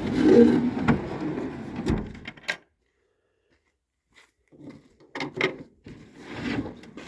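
Knocks and clicks of the wooden drawers and compartment doors of a DIY truck-bed camper being handled, with a couple of seconds of dead silence midway.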